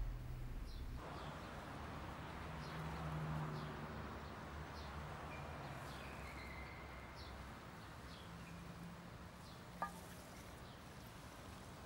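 Outdoor ambience: a steady hiss with scattered short high bird chirps and a faint low hum that comes and goes.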